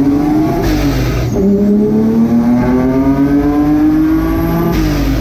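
Twin-engine twin-turbo Mazda MX3 accelerating hard at full throttle. The engine note climbs, drops at an upshift about a second in, climbs steadily through the next gear and drops at another shift near the end, with a brief rush of noise at each shift.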